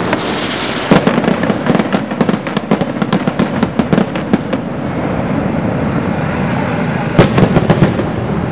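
Fireworks display: rapid volleys of sharp bangs and crackles for several seconds, a brief lull of steady rumble, then another quick run of bangs near the end.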